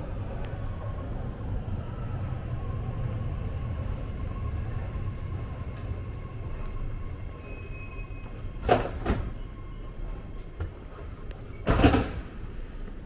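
BART train running with a steady low rumble and a faint steady whine. Near the end come two short, loud rushes of noise about three seconds apart.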